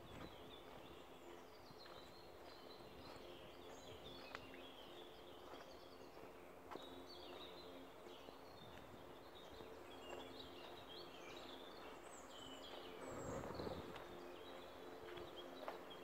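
Faint woodland birdsong: several small birds chirping and singing in short phrases throughout, over a faint steady hum. A brief rustling noise comes up near the end, along with a few soft clicks.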